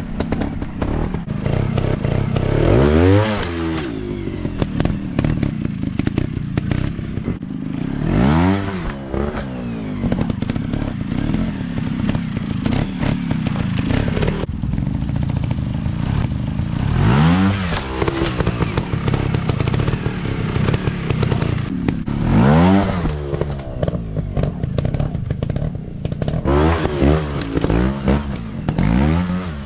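Dirt bike engines running and revving, the pitch surging up and falling back every few seconds, with some clattering.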